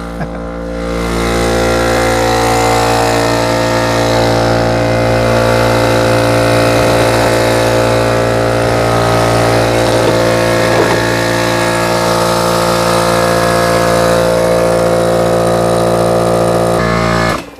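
Electric air compressor running steadily with a constant motor hum, then shutting off suddenly near the end.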